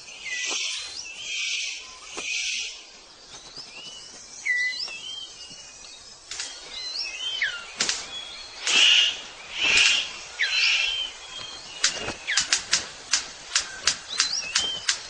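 Bird sounds: three harsh hissing bursts, then short whistled chirps sliding up and down, a few loud rasping calls, and a fast run of sharp clicks near the end.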